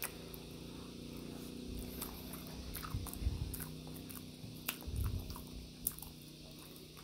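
A person chewing a mouthful of soft grilled banana, with wet mouth noises, a few soft thuds around the middle and a couple of sharp clicks as the charred peel is pulled back. A steady low hum runs underneath.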